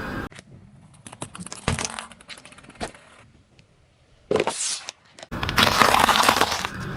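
Objects cracking and crunching as they are crushed: a run of sharp snaps and cracks with a louder crack just under two seconds in, then a short burst and denser crackling near the end, with abrupt cuts between them.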